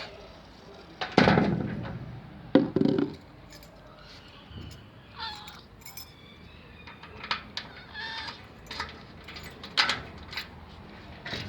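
A cat meowing, two short calls in the middle, with a loud knock about a second in and sharper knocks and clicks around it.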